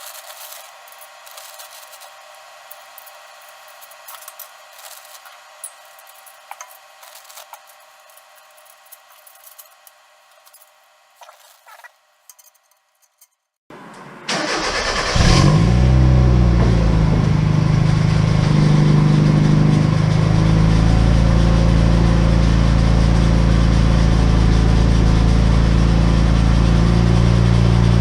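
Mazda NA Miata four-cylinder engine, running through a test pipe in place of the catalytic converter: it starts about halfway through, flares briefly and settles into a loud, steady idle. Before it, faint scattered clicks.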